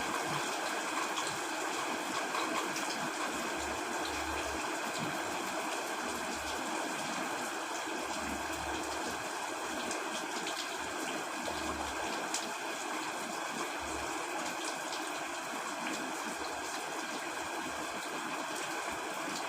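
Heavy rain falling steadily on a tent: an even hiss with faint scattered drop ticks.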